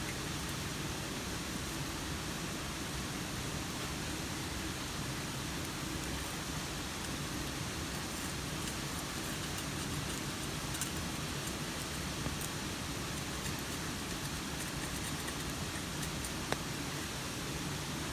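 Steady rain with a few sharp pops from a wood campfire, one louder pop near the end.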